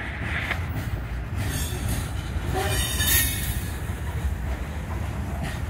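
Freight train of covered hopper cars rolling slowly past at close range, a steady low rumble of wheels on rail. High-pitched wheel squeal rises over it, strongest about three seconds in.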